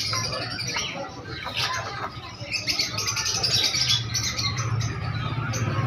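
Many small caged birds chirping over one another, dense and overlapping, with a steady low hum joining about halfway through.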